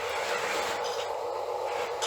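Steady running of a radio-controlled model construction machine's small electric motor, with a few brief scraping sounds.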